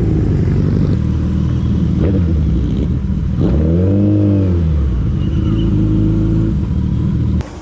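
Superbike engine running loudly, with one rev that rises and falls in pitch a little past the middle. The sound cuts off abruptly just before the end.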